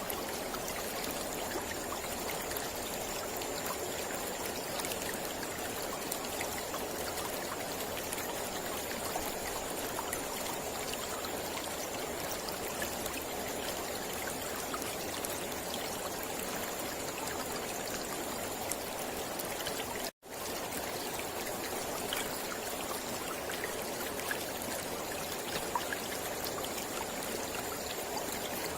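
Mountain river flowing over rocks, a steady rushing and trickling of water, cut by a momentary dropout about twenty seconds in.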